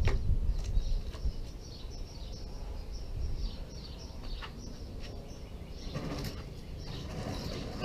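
Birds chirping, a quick run of many short high notes repeating throughout, over a steady low rumble of background noise.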